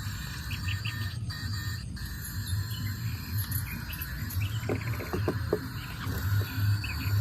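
Insects chirping in short high calls, with a brief even trill about four and a half seconds in, over a low pulsing hum and a few soft clicks.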